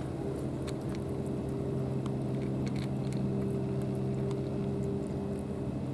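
Motorboat engine running steadily with a low even hum, with scattered small clicks over it.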